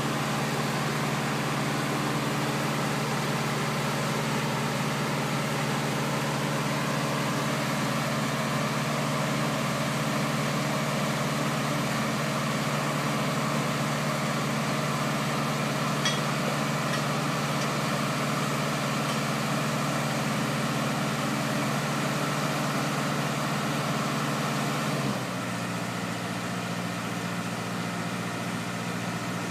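Boat gantry's engine running steadily, then dropping to a lower speed about 25 seconds in.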